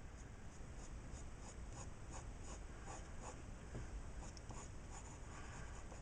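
Faint scratching of a pencil on drawing paper in short, quick strokes, about three a second, as fine detail is drawn into a tree.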